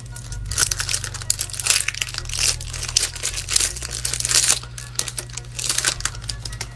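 Foil wrapper of a Pokémon TCG booster pack crinkling and tearing as it is worked open by hand, in irregular bursts: a stubborn wrapper that is slow to tear.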